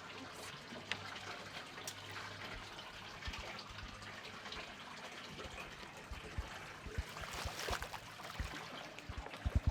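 Water trickling and splashing steadily, with scattered clicks and a series of low thumps that grow more frequent near the end.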